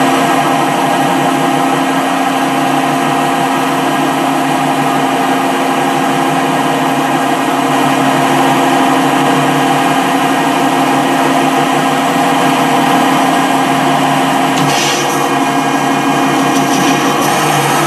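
Metalworking lathe running steadily with a layered gear whine, turning down the outside of a hard steel part. About fifteen seconds in, a higher hiss joins the machine sound.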